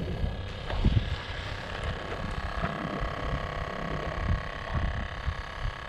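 Wind buffeting the microphone in irregular low gusts, strongest about a second in, over a faint steady hum.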